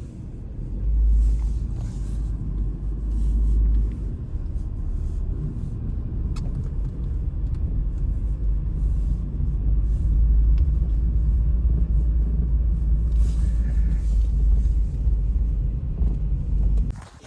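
Strong blizzard wind buffeting the microphone: a heavy, deep rumble that swells and eases in gusts, starting and cutting off abruptly.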